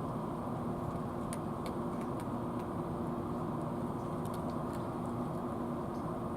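A steady low hum with a few faint, short high clicks scattered through it.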